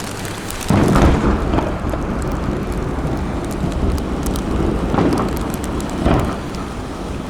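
Aerial fireworks shells bursting: a loud boom about a second in, then two more booms near the end, over a continuous rolling rumble with scattered crackles.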